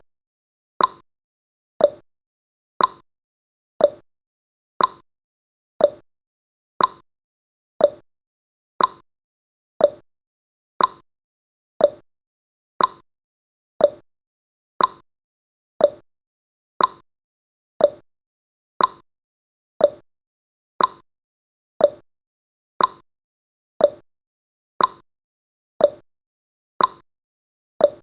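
A countdown timer's clock-tick sound effect, one sharp tick per second, steady and even.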